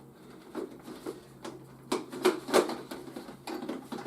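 Toy jet parts being handled and fitted together: a series of irregular clicks and knocks, loudest about two to two and a half seconds in.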